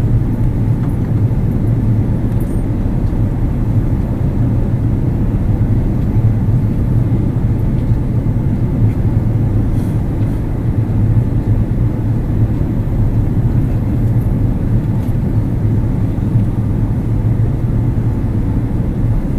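Airbus A330 airliner cabin noise in flight: a steady, deep roar of the engines and airflow over the fuselage, heard from inside the cabin, with no change in level.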